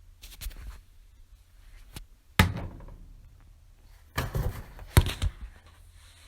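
Several knocks and thunks of things being handled and set down, some sharp and loud: one about two and a half seconds in, and a busier run from about four seconds with a loud knock near five seconds.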